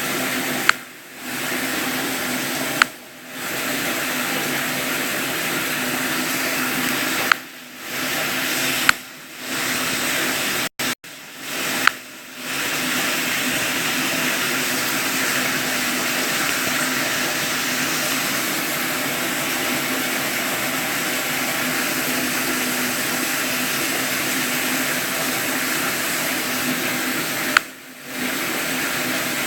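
Steady rushing water with a sharp click now and then, six in all, each followed by a brief dip in the water sound; the clicks are the phone's touch clicks as its screen is tapped.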